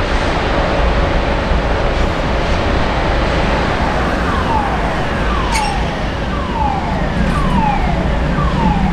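Steady, loud rumbling noise of a works railway train. From about three and a half seconds in, a short falling tone like a warning siren repeats about once a second.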